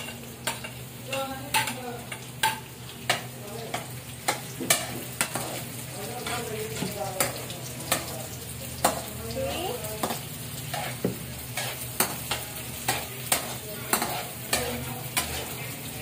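Sliced onions and garlic frying in hot oil in a steel wok, sizzling steadily, while a metal ladle stirs them, scraping and clinking against the wok over and over.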